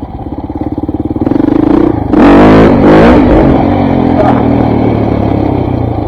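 KTM 400 MXC dirt bike's single-cylinder four-stroke engine running under the rider. It picks up about a second in, then revs hard in a loud burst of throttle around two to three seconds in before settling back to a steady pull.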